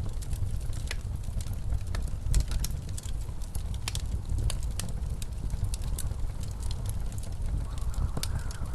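Wood fire crackling in a fireplace, with irregular sharp pops and snaps, over the steady low rumble of blizzard wind. A faint howl of wind swells near the end.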